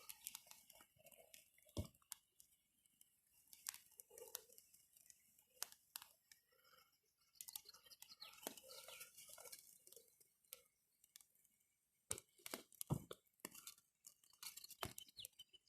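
Faint, scattered crackles and snaps of dry brushwood twigs handled and fed onto a small struggling campfire, with a few sharper clicks.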